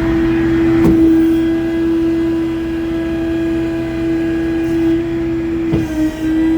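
Tow truck machinery running with a steady, even humming whine, with a sharp click about a second in and another near the end.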